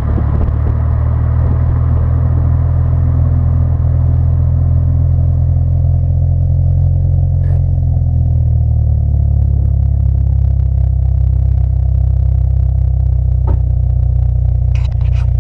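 Second-generation Mitsubishi Eclipse with an aftermarket muffler, engine idling steadily through the exhaust with a low, even note. A few sharp clicks sound near the end.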